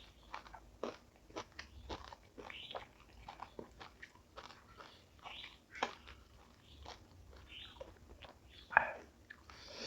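A person chewing crisp food close to the microphone, a continual run of small crunches. Two louder crunching bites come about six and nine seconds in.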